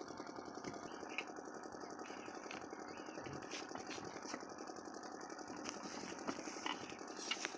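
Diesel engine of an 8 hp water pump set running steadily, with an even, rapid rattle.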